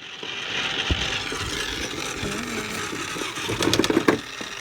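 Small electric motor of an egg-decorating spinner whirring steadily while a marker is held to the turning egg.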